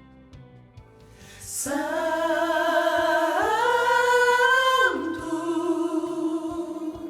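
Soprano voice singing a wordless held note, which steps up in pitch about two seconds after it starts and comes back down about a second and a half later. An intake of breath comes just before the note.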